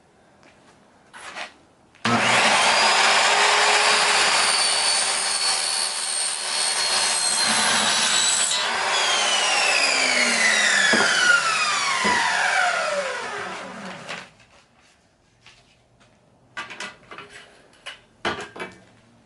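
A power saw starts up about two seconds in, its whine rising as it spins up, and cuts through the top and bottom screen tracks clamped together. After about six seconds the motor is released and the whine falls steadily as the blade spins down, followed by a few light clicks and knocks.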